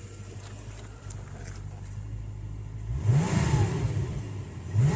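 1988 Callaway Corvette's twin-turbocharged V8 idling, then blipped twice near the end, the pitch sweeping up and quickly back down each time. The revs rise and fall quickly, very responsive.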